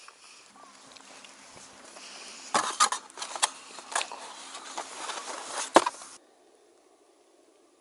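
Handling noise from a thin wooden bento-box lid and box: rustling, then a series of sharp clicks and knocks, the loudest about six seconds in. Right after it the sound cuts off abruptly to a faint hiss.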